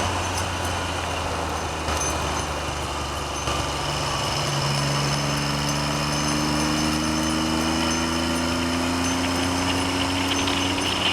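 Triumph Trident's three-cylinder engine running under way, its pitch climbing slowly through the second half as the bike gathers speed, over steady wind noise on the microphone.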